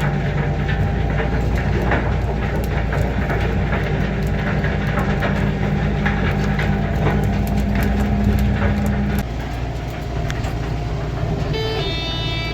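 Tractor engine droning steadily under load, heard from inside the cab, with clattering rattles from the rig. About nine seconds in the engine note drops and the sound gets quieter.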